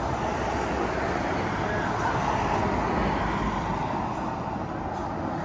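Highway traffic passing: a steady rush of road noise that swells a little and eases off again.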